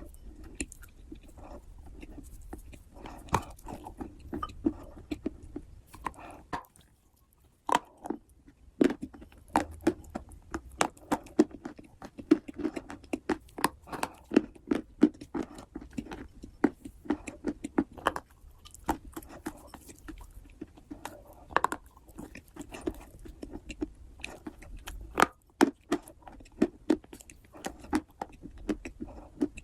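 A person chewing big bites of wet clay close to the microphone, a dense run of sticky, clicking mouth sounds that pauses for about a second roughly seven seconds in.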